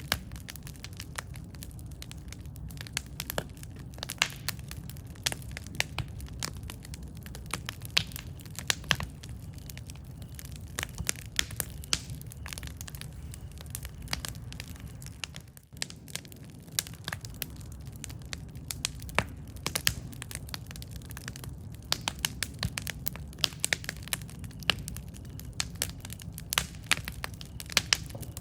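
Campfire burning, with irregular sharp crackles and pops several times a second over a steady low rush of flame.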